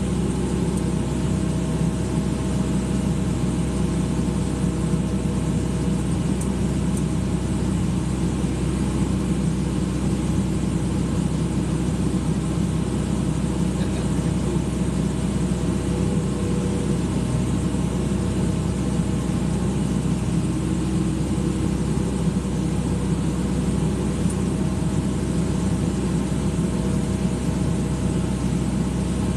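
Excavator's diesel engine running steadily at an even speed with a low hum.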